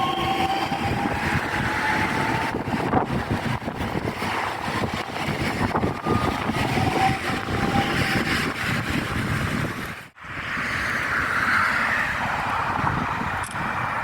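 A train passing close by, a steady rumbling rush of noise with a faint, slightly falling squeal in the first few seconds. The sound drops out abruptly for a moment about ten seconds in.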